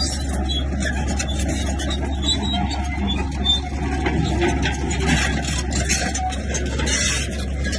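Komatsu bulldozer's diesel engine running steadily under load, with irregular scraping and clatter from the tracks and blade on rock, busiest in the second half.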